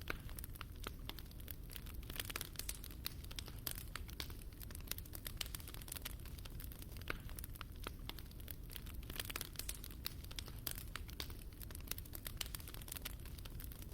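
Fire burning in a fireplace, crackling steadily with many small irregular pops and snaps over a low, even rumble of the flames.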